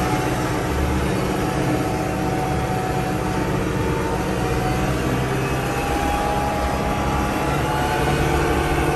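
Kubota L6060 tractor's four-cylinder turbodiesel engine running steadily while the tractor drives along carrying a grapple load, with a thin steady whine above the engine note.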